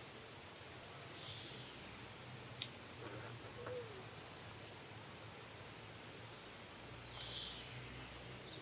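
Forest ambience: birds chirping in two quick clusters of short, high notes, one about half a second in and another about six seconds in, with a few fainter calls between, over a steady insect hum.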